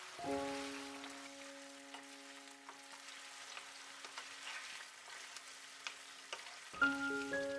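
Chicken curry sizzling in a non-stick wok, with small clicks and scrapes of a wooden spatula stirring it. Background music holds one chord throughout, and new mallet-like notes come in near the end.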